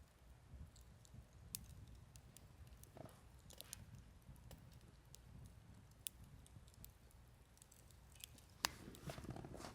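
Campfire crackling, with scattered sharp pops over a low rumble; a louder pop comes near the end, followed by a brief, busier stretch of crackling.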